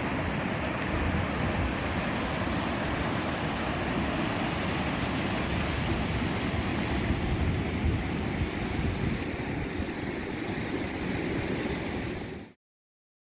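The Hoh River rushing past in a steady roar of water, which cuts off suddenly near the end.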